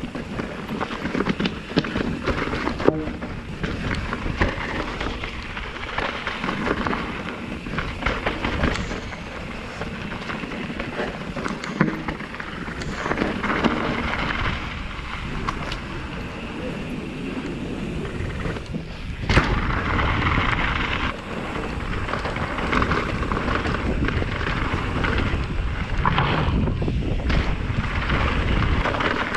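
Commencal META Trail 29 mountain bike descending a rough, rocky trail: a constant clatter of tyres over rock and dirt and rattling from the bike, with frequent sharp knocks from hits, and wind rushing over the microphone.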